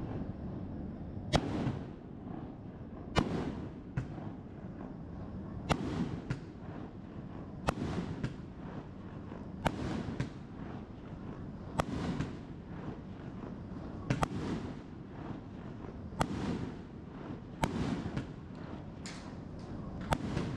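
Fireworks going off: sharp bangs about every two seconds, some close together in pairs, each trailing off in a rumbling echo.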